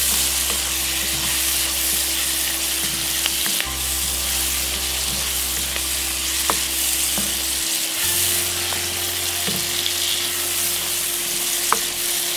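Chopped onions and ground spices sizzling in hot oil in a nonstick wok while being stirred, the cooking spoon now and then clicking against the pan.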